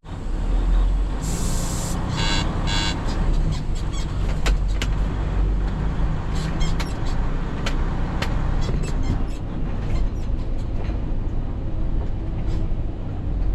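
Semi-truck diesel engine running steadily, with a short sharp hiss of air from the air brakes about a second in. A brief run of electronic beeps and scattered clicks follows.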